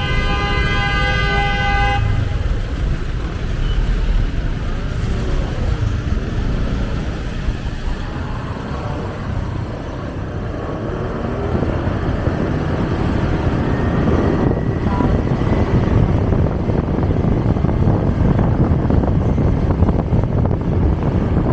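Road traffic heard from a moving motorcycle: a vehicle horn sounds steadily and stops about two seconds in, followed by a continuous rumble of engines, tyres and wind that grows louder in the second half.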